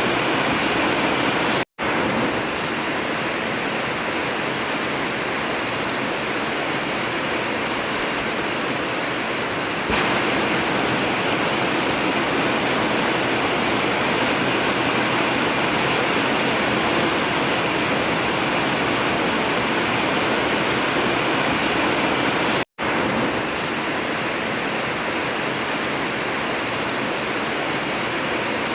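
Heavy rain falling steadily on an old tin roof, an even hiss of drumming. The sound cuts out for an instant twice.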